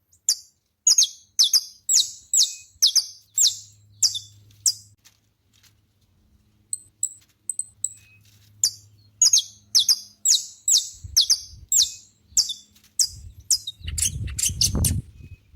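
Saffron finch singing: a series of sharp, downward-sweeping high notes, about two a second, in two phrases with a short pause between them. A low rumble joins near the end.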